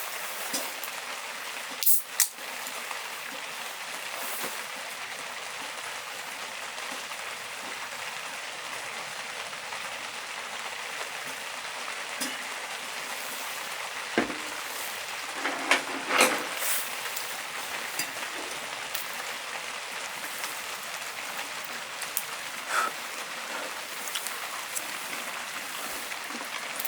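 Steady heavy rain falling, a constant hiss of drops, with a few short sharp knocks or clicks, the loudest about two seconds in and a cluster around sixteen seconds in.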